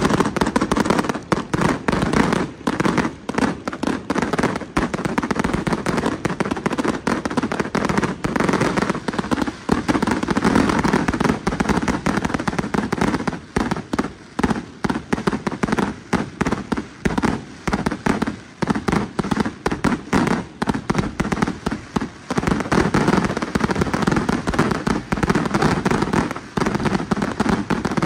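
Dense barrage of aerial fireworks: rapid, continuous bangs and crackling shell bursts, many per second, with no pause.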